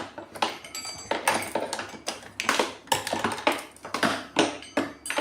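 Hard parts of an HHO generator being handled and fitted together by hand: a run of irregular clicks, knocks and clinks, several a second, some with a brief ring.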